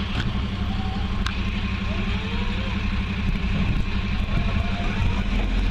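Heavy vehicle engine running steadily with a low pulsing hum, with a sharp click about a second in.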